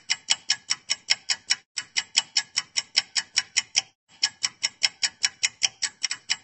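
Rapid, even ticking, about five to six sharp ticks a second, with two brief breaks, like a clock or timer tick.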